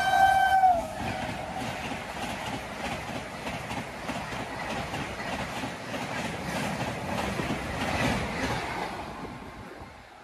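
A Gatimaan Express passenger train passes at high speed, its wheels rattling in a fast, irregular clickety-clack over the rail joints as the coaches go by. The rattle fades away near the end. A train horn cuts off within the first second.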